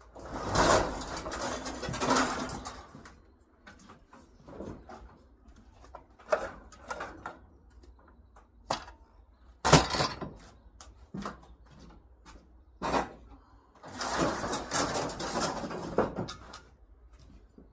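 Irregular handling noises: a couple of longer scraping, rustling stretches, near the start and near the end, with scattered clicks and one sharp knock about ten seconds in.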